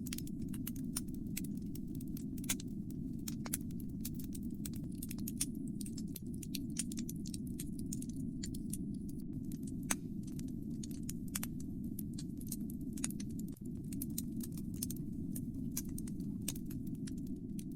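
Fire burning in a fireplace: a steady low rumble of the flames with frequent irregular crackles and sharp pops, a few louder snaps among them.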